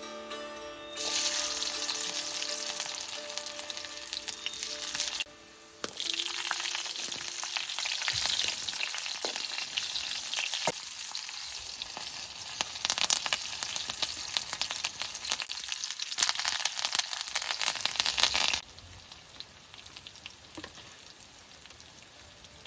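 Food deep-frying in hot oil: a loud sizzle full of small pops. It drops out briefly about five seconds in and stops suddenly near the end.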